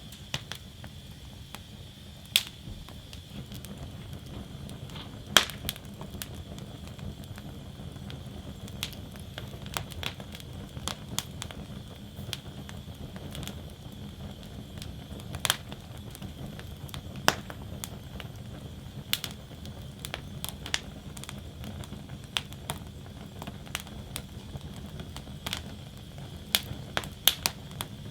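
Wood fire in a fire basket crackling, with irregular sharp snaps and a few louder pops over a steady low rush of flame.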